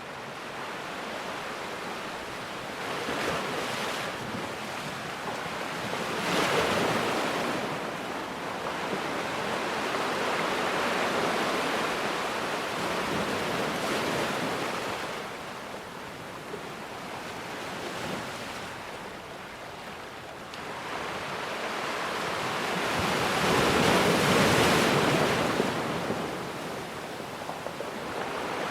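Ocean surf: waves breaking and washing in, a rushing noise that swells and ebbs several times, with the biggest swell late on.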